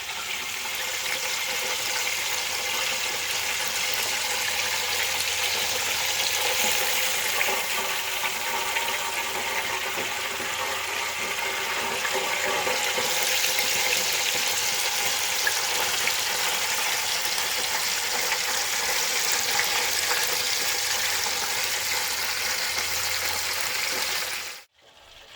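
Flour-coated chicken drumsticks deep-frying in hot oil: a steady, loud sizzle with fine crackling, which cuts off suddenly near the end.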